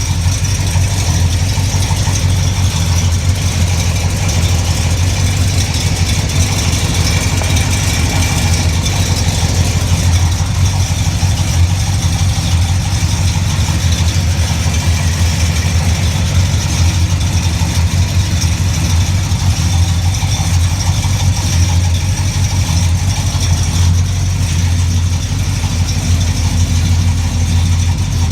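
Car engine idling steadily with a low, even drone, on the first startup of a vehicle fitted with a 700R4 automatic transmission.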